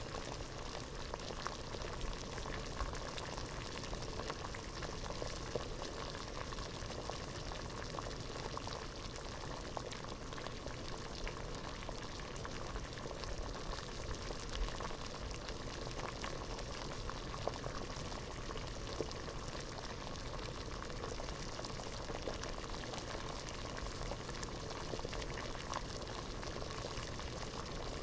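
Water boiling in a pot, a steady rolling bubble with many small pops and crackles.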